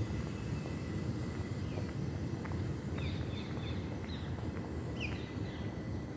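Outdoor ambience with a steady low rumble, the walker's footsteps, and small birds chirping in short falling calls, a cluster about three seconds in and another around five seconds.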